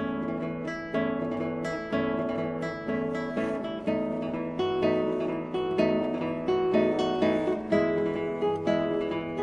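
Classical guitar music: an acoustic guitar playing a steady run of plucked notes and chords.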